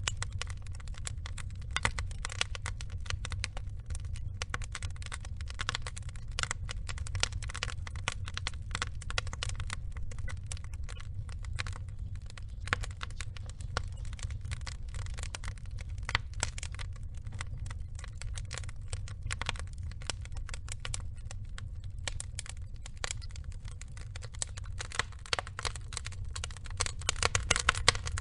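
Burning wood logs crackling in a dense, irregular stream of small sharp snaps over a low steady rumble, the snaps growing a little louder near the end.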